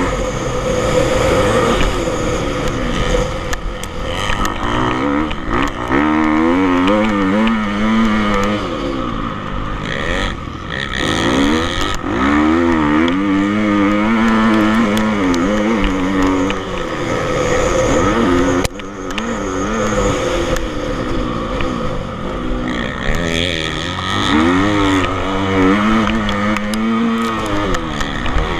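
Motocross bike engines revving hard, their pitch rising and falling again and again as the bikes ride the track, at times more than one at once.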